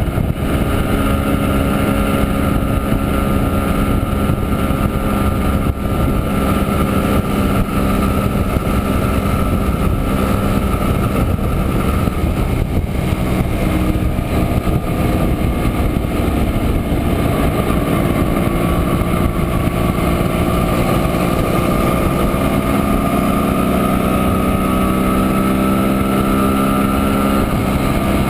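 1967 Montesa Impala Comando 175 cc two-stroke single-cylinder engine running steadily while riding, heard from aboard the motorcycle; its pitch shifts slightly near the end as the revs change.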